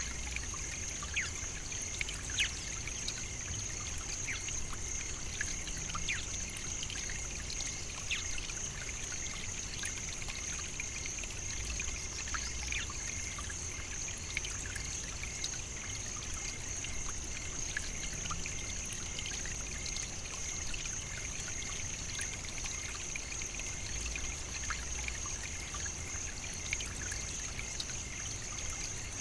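Nature ambience: water trickling steadily, with many small scattered drips and clicks, under a continuous high-pitched hum.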